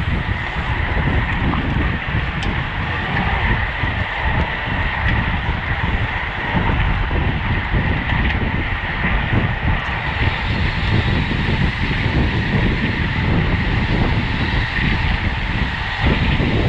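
Wind buffeting the microphone of a bicycle-mounted camera at race speed, over a steady rumble from the tyres on the road.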